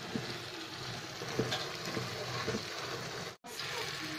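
Stuffed brinjals and masala gravy sizzling in a pan while a wooden spatula stirs them, with small scrapes against the pan. The sound cuts out for an instant about three and a half seconds in.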